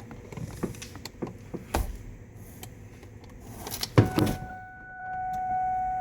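Clicks and knocks inside the 2003 Mustang Cobra, with a thump about four seconds in. Right after it a steady whine sets in and grows louder about a second later, which the owner calls the fuel system engaging.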